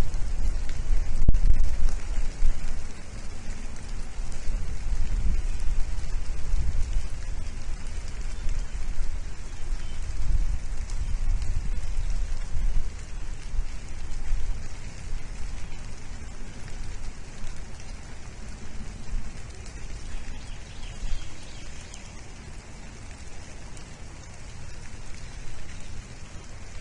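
Rain falling as a steady hiss, over an unsteady low rumble of wind on the microphone that eases off toward the end.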